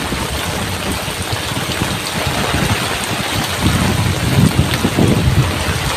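Heavy rain pouring down steadily, with wind gusts buffeting the microphone in an uneven low rumble.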